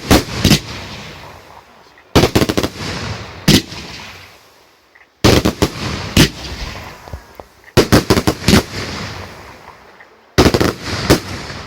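Firework shells bursting overhead in five volleys about two to three seconds apart, each a quick cluster of sharp, loud bangs followed by a fading crackle and rumbling echo.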